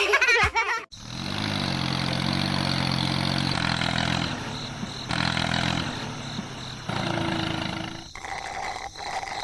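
Steady low drone of a small engine or motor running, changing abruptly in pitch and level several times.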